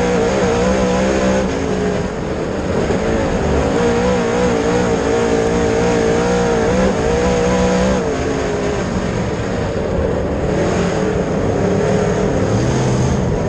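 Dirt late model race car engine running at speed on track, its pitch rising and falling over and over as the throttle comes on and off.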